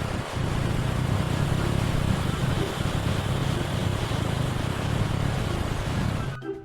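A vehicle engine running steadily with a low rumble and rushing noise. It cuts in abruptly and stops just before the end.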